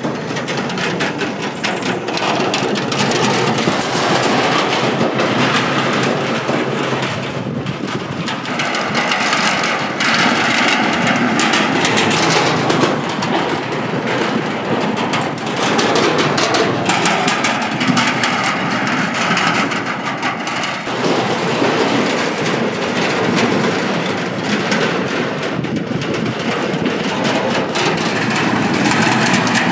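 Steady stream of motorcycles crossing the Cẩm Kim steel bridge: a loud, continuous rumbling clatter of the bridge deck under their wheels, swelling and easing every few seconds as bikes pass.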